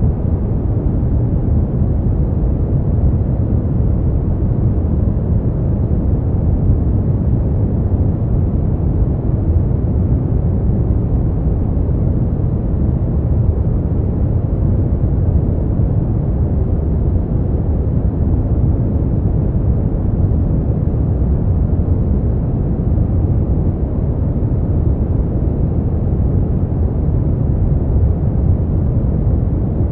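Steady brown noise: an even, deep rumbling hiss with most of its weight in the low end and little above the mid range, unchanging throughout.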